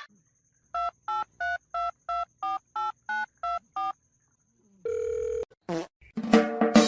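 Touch-tone telephone keypad being dialled: about ten short two-note beeps, roughly three a second, followed by a short steady tone. Music starts loudly near the end.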